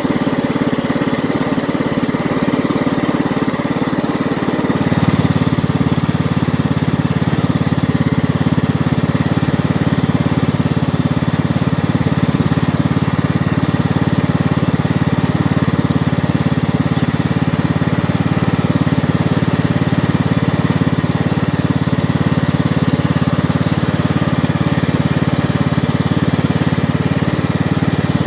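A John Deere lawn tractor's 540cc 18 hp engine running steadily while the tractor is driven slowly. About five seconds in, the engine note gets deeper and slightly louder, then holds steady.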